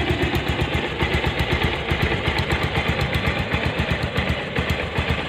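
Bajaj Pulsar 150's air-cooled single-cylinder four-stroke engine idling steadily with a fast, even beat. The idle is left unrevved while engine flush, added to the old oil, circulates before the drain.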